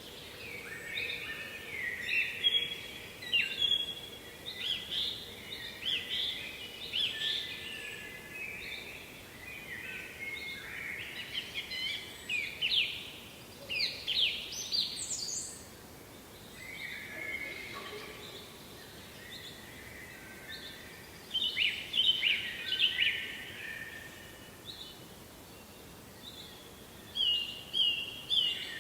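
Songbirds singing: overlapping bursts of chirps and trills, several loud phrases coming and going, over a faint steady background hiss.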